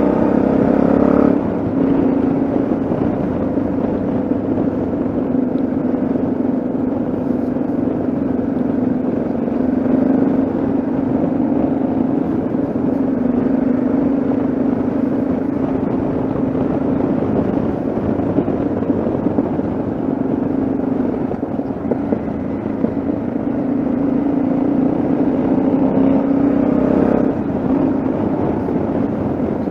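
Yamaha XT660Z Ténéré's single-cylinder engine running under way, with a steady engine note over wind rush. The note drops about a second in and rises again near the end as the throttle opens.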